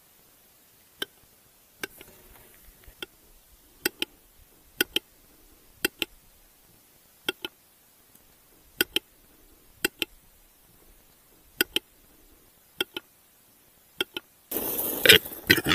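Western capercaillie male's display call: sharp wooden clicks, mostly in close pairs, about once a second. A louder rush of noise comes in near the end.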